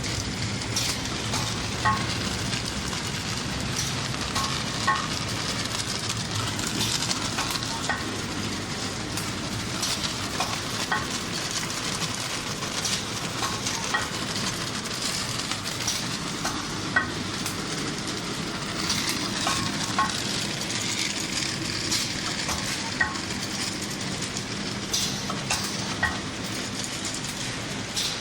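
Automatic paper straw counting and bagging machine running: a steady mechanical clatter and hiss over a low hum, with a sharper click about every three seconds as it cycles.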